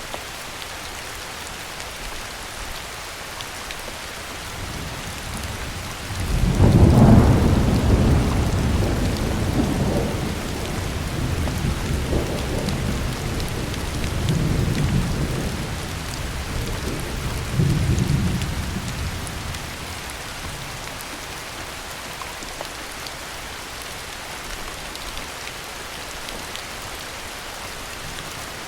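Heavy rain falling steadily, with a roll of thunder that builds about five seconds in, breaks loudest a couple of seconds later and rumbles on in several swells before fading out well before the end.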